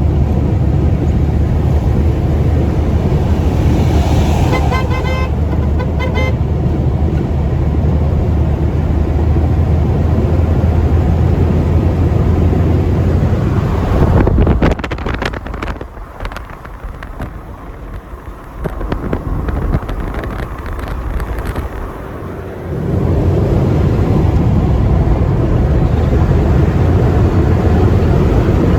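Steady rumble of a road vehicle in motion, with a run of short horn toots about four to six seconds in. The rumble drops away for several seconds in the middle, then comes back at full level.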